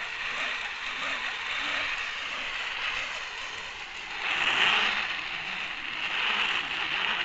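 Zipline trolley pulleys running along a steel cable during a ride: a steady whirring hiss that swells about four seconds in.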